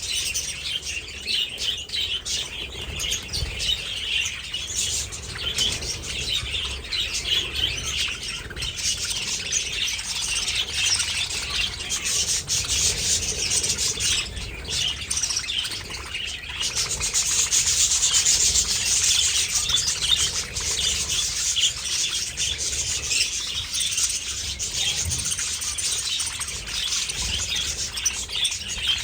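A flock of budgerigars chattering and chirping: a dense, continuous mass of many overlapping short calls, swelling a little louder just past the middle.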